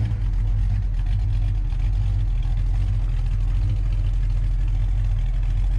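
Classic muscle car's engine idling with a low, steady, lumpy rumble as the car creeps into a parking spot.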